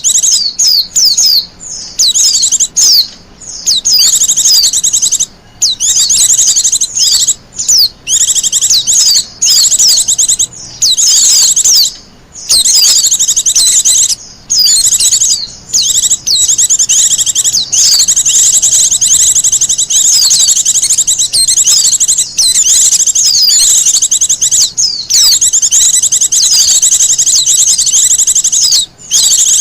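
Wild white-eyes (pleci) singing: a loud, rapid, high-pitched twittering song in long unbroken runs separated by brief pauses.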